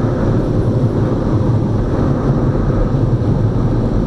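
Automatic car wash air-dryer blowers running, a loud steady rush of air heard from inside the car.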